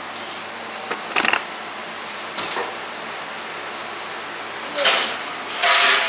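Oven door and rack being handled as foil-wrapped potatoes go into the oven: a few separate knocks, then a louder clatter near the end.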